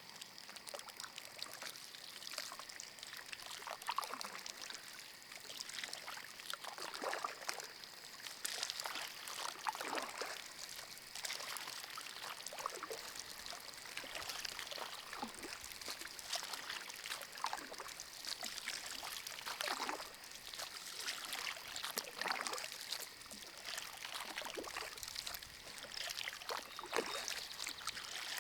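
Kayak paddle strokes in shallow water: repeated dips and splashes with water dripping off the blade, about one every second or two.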